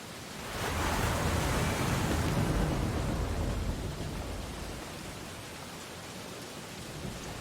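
Ocean surf washing on a beach: a wave's rush swells up about half a second in, stays at its loudest for a couple of seconds and then subsides into a softer steady wash, with the next wave starting to build near the end.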